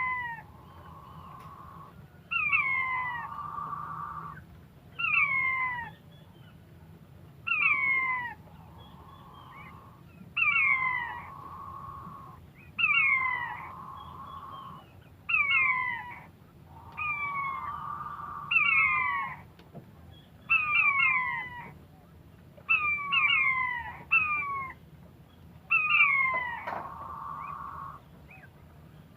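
Quail calling over and over, a short call of two or three quick falling whistled notes repeated about every two to three seconds.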